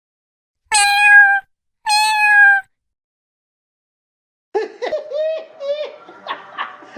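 A cat meowing twice, two long, level meows about a second apart that drop slightly in pitch at the end. About four and a half seconds in, a quick string of short, pitched calls begins.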